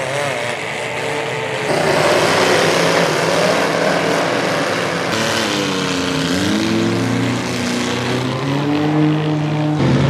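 Demolition derby cars' engines revving and running, their pitch rising and falling as they push and ram on a dirt track. The sound changes abruptly about two seconds in, about five seconds in and near the end.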